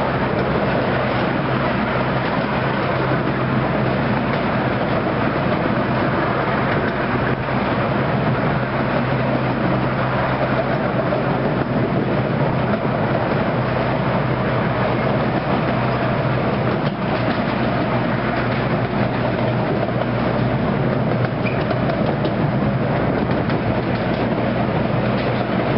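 Miniature railway train running steadily, heard from its open passenger carriage: a constant rumble of the wheels on the track with a low steady hum underneath.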